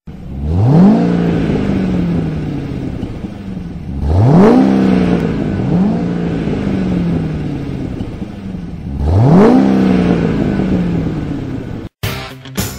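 A car engine revved hard three times, about four seconds apart, with a smaller blip between the second and third; each rev climbs quickly in pitch, then falls away slowly. Near the end it cuts to rock music.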